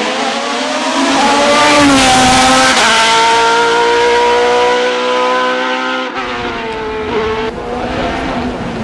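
Hill-climb race car engine accelerating hard past. The note rises, drops once at an upshift about three seconds in, and climbs again. Near six seconds the pitch falls sharply and the engine fades away.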